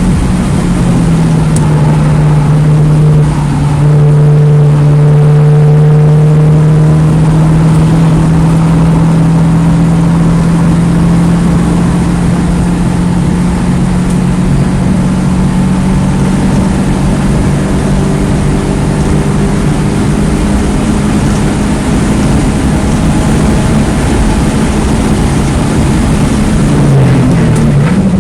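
2009 Mini Cooper S (R56) turbocharged 1.6-litre four-cylinder engine running hard at high revs on track. The pitch holds fairly steady and slowly climbs, then dips briefly and comes back near the end, with road and wind noise underneath.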